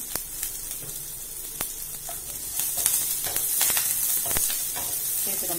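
Tempering of mustard seeds, urad dal, ginger and green chillies sizzling in hot oil in a non-stick pan, with scattered sharp ticks. The sizzle grows louder a little under halfway through as a wooden spatula stirs the mix.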